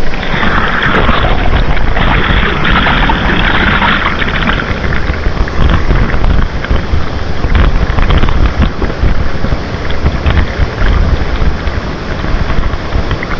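Steady rush of river water with wind buffeting the microphone, the water hiss strongest in the first few seconds.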